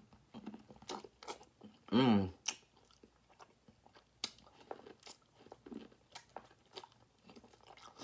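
Close-up eating of sauce-coated corn on the cob: biting into the ear and chewing, with many small wet crunches and mouth clicks. A short hum of the voice comes about two seconds in.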